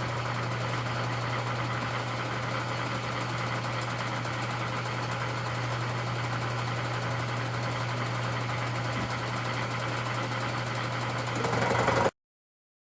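Belt-driven milling machine running at 660 rpm with a 3/4-inch cutter taking a pass on a repaired engine manifold: a steady motor hum under the hiss of the cut. It gets a little louder near the end, then cuts off suddenly.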